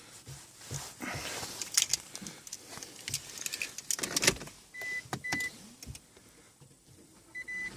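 Clothing rustling, keys jangling and scattered clicks and knocks as the car key is fetched, then three short high electronic beeps from the Toyota Prius in the second half as the car is switched on to be put in neutral.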